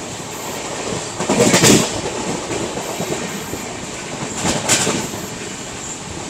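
Passenger train running at speed, heard with the microphone held out of the moving coach: a steady rush of wheels on the rails and air, with two louder surges of clatter, about a second in and again near five seconds.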